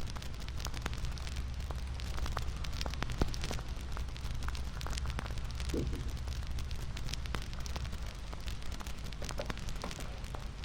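Wood fire crackling: a steady low rumble of flames with many small irregular pops and snaps, one a little louder about three seconds in.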